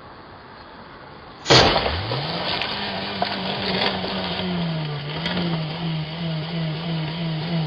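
A sudden loud crash about a second and a half in, then a vehicle engine revving up sharply and held at high revs.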